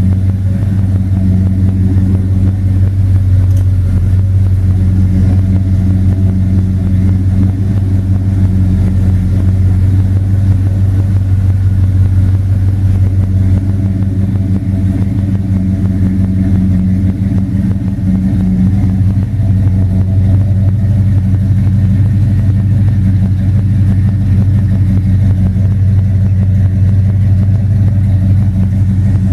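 The 1971 Oldsmobile Cutlass's 455 cubic-inch V8 running steadily at an unchanging engine speed, with its low exhaust note holding one pitch and no revving.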